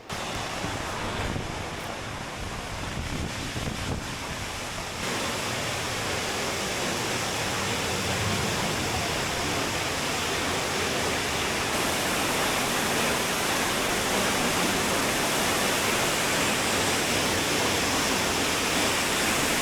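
Waterfall rushing: a steady rush of falling water that gets louder about five seconds in.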